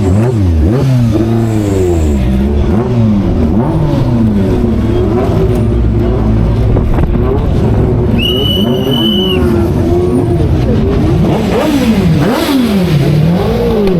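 Historic race car engines revving and passing, several engine notes rising and falling in pitch over one another. About eight seconds in, a steady high tone sounds for a little over a second.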